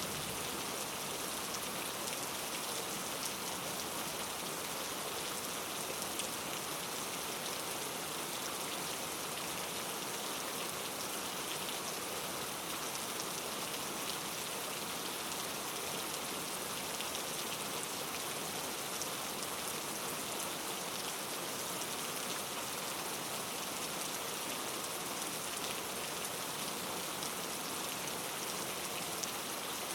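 Steady rain falling, a continuous even hiss of many drops with fine pattering ticks.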